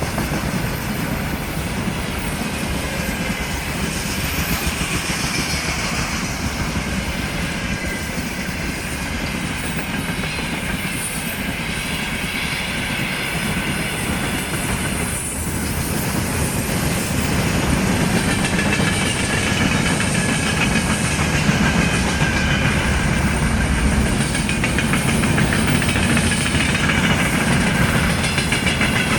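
Freight train passing at a steady pace, its wagons rolling along the rails in a continuous rumble that grows a little louder a little over halfway through.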